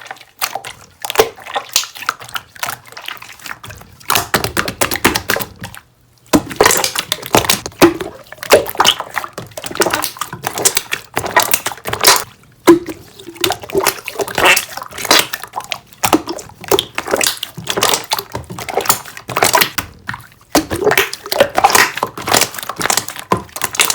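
Soft, watery slime being squished and worked by hand, making a fast run of wet, sticky clicks and squelches, with a short pause about six seconds in.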